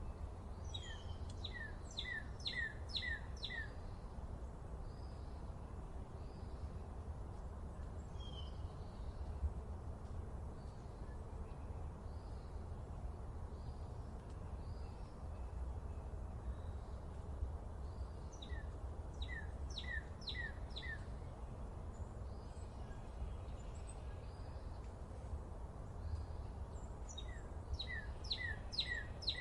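A songbird singing a phrase of five or six quick down-slurred notes, three times, with a few fainter calls between, over a steady low rumble.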